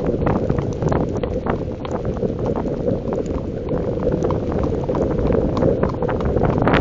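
Wind buffeting the microphone in the rain, a dense low rumble with many scattered small ticks of raindrops striking.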